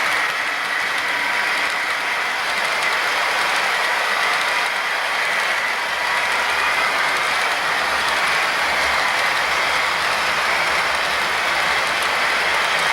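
HO-scale model locomotive running along the track, its motor and gears giving a steady mechanical whirr with a faint whine over the rolling of its wheels on the rails.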